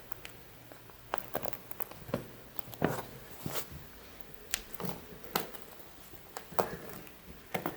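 A string of light, irregular taps, clicks and scuffs, about a dozen, with no steady rhythm.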